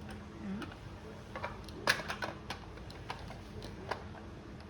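Small plastic toy pieces clicking and knocking as a die-cast toy monster truck is fitted into a plastic toy hauler playset: a scatter of light, irregular clicks, the sharpest about two seconds in.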